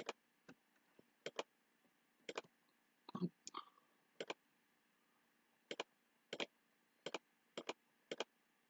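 Computer mouse clicks, mostly in quick press-and-release pairs, coming at uneven intervals as items are selected on screen. A brief, louder, lower sound comes about three seconds in.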